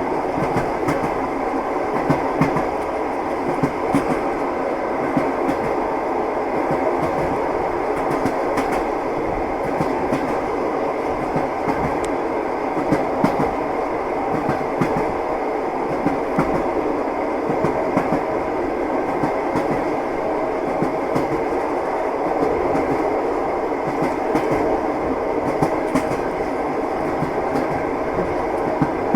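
A moving train: a steady rumble with scattered knocks of the wheels on the rails, running on without a break.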